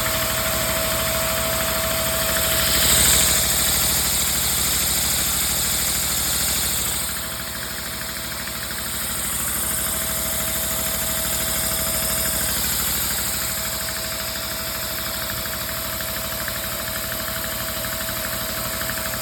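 Single-cylinder Lego vacuum engine with a rotary valve running at speed: a rapid, even clatter over a constant hiss and a steady whine. It swells briefly about three seconds in and settles a little quieter from about seven seconds.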